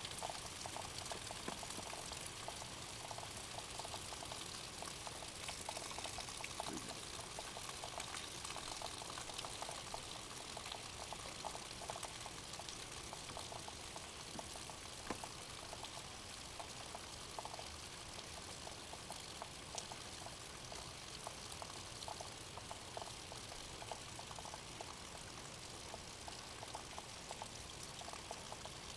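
Heavy rain falling steadily, a dense even hiss with many small drop ticks through it.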